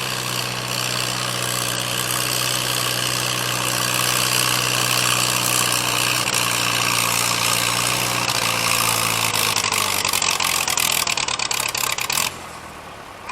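Gas farm tractor engine running hard during a tractor pull, its pitch sagging over the middle seconds as it lugs down. The sound cuts off suddenly to a much quieter background near the end.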